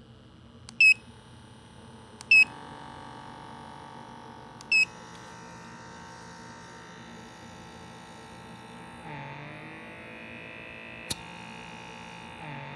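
Electric blackhead suction pore cleaner: three short beeps from its buttons, then its small suction motor running with a steady whine. About nine seconds in the pitch shifts and wavers, and again near the end; a sharp click comes about eleven seconds in.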